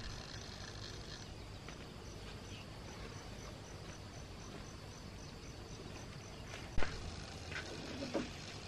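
Insects chirping in a steady, high pulsing rhythm, about three pulses a second, with a sharp knock about two-thirds of the way through.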